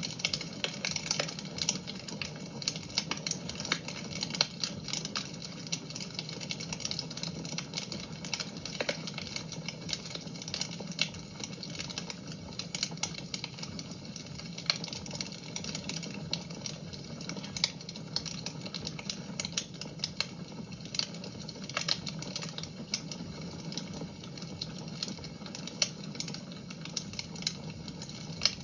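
Fire crackling in a fireplace: a steady hiss of burning with frequent irregular sharp pops and snaps.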